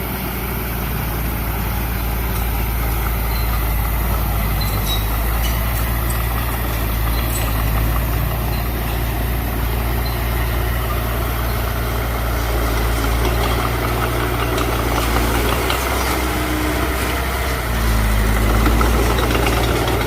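Heavy machine's diesel engine running steadily at low revs, getting louder about three-quarters of the way through as it picks up.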